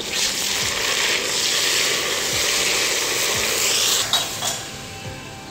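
Onions frying in hot oil in a metal pot, sizzling loudly as ginger-garlic paste and a little water go in and are stirred with a wooden spatula. The sizzle dies down about four seconds in, and a couple of spatula knocks follow.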